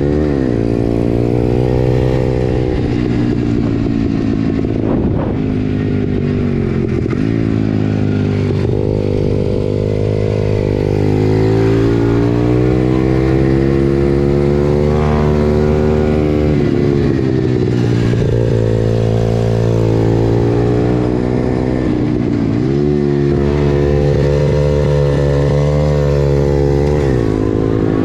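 Pit bike's small single-cylinder engine revving up and down repeatedly. The pitch climbs and then drops sharply about half a dozen times as the throttle is opened and closed.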